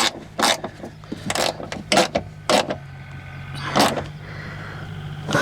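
Hand tool working the window regulator's fasteners inside a car door, as the regulator is tightened in place: about five separate short clicks and knocks, spread irregularly over the first four seconds, over a steady low hum.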